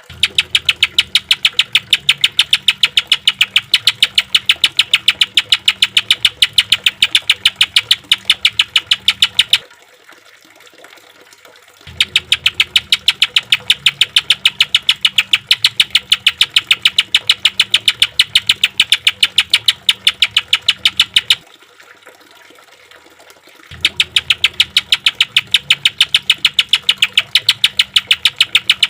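Greater green leafbird (cucak ijo) giving a harsh 'tembakan' burst: a fast, evenly spaced series of repeated rough notes. It comes in three long runs of about ten seconds, broken by two short pauses.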